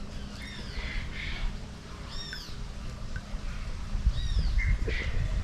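A bird calling: a series of short, arched chirps repeated every second or so over a low rumble.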